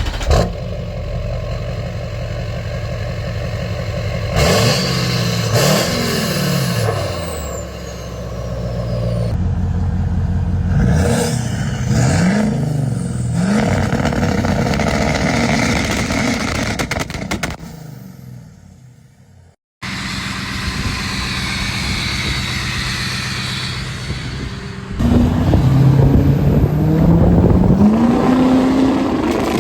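Diesel truck engines revving in a string of short clips cut one after another. Each engine runs loud and rumbling, its pitch climbing and falling as the throttle is blipped, with a sudden switch to a different engine several times and a brief dropout about two-thirds of the way through.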